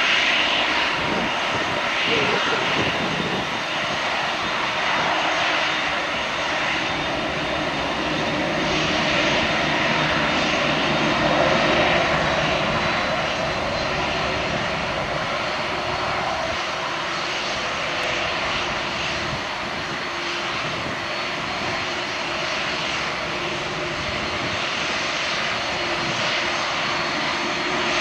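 Airbus A319-113 airliner's CFM56 turbofan engines running, a steady loud jet roar with a faint high whine above it.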